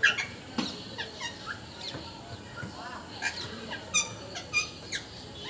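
Pet parrot chirping and chattering: a quick, irregular string of short, high calls, several of them falling in pitch, with sharper ones right at the start and about four seconds in.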